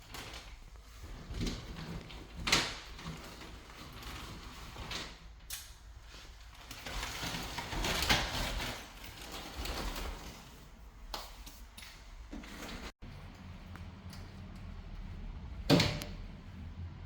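Scattered knocks and clatter in a small room, with a few seconds of scraping noise about eight seconds in, over a low steady hum.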